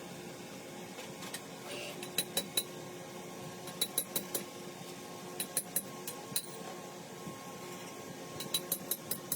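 Light metallic clinks of tools or engine parts being handled, in short quick runs of three to five, over a steady low workshop hum.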